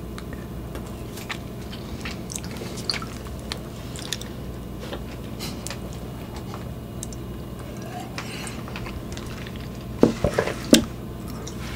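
Close-miked eating sounds: soft chewing and wet mouth clicks, with a drink taken from a glass of milk partway through. Two sharper knocks come near the end.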